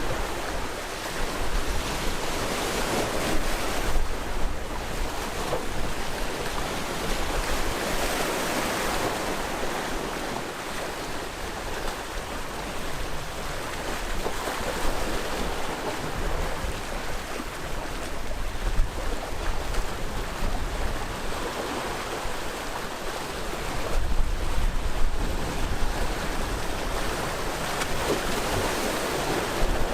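Sea waves washing onto the shore in a continuous rush, swelling and easing every few seconds, with stronger surges about four, eight and twenty-five seconds in.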